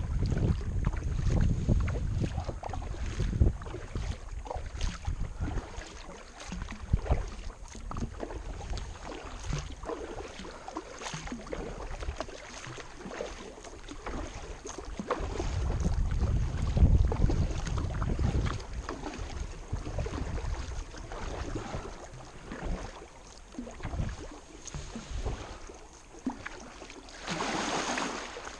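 Kayak paddle strokes dipping and splashing in river water, with gusts of wind buffeting the microphone at the start and again in the middle, and a bigger hissing splash near the end.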